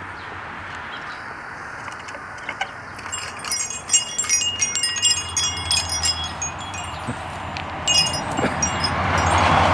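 Metal wind chimes ringing: a flurry of high, clear tones struck over and over from about three seconds in, easing off, then another few strikes near the end. A rising rush of noise builds toward the end.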